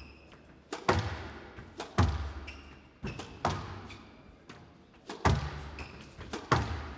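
Squash rally: the ball is struck by rackets and hits the walls, giving sharp, echoing smacks about every one to two seconds, with brief squeaks of shoes on the court floor.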